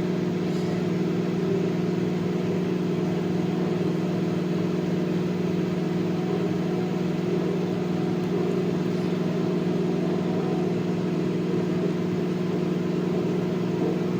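Microwave oven running with a steady electrical hum while it heats a bowl of soap pieces. The owner fears the microwave is broken because the soap is not puffing up.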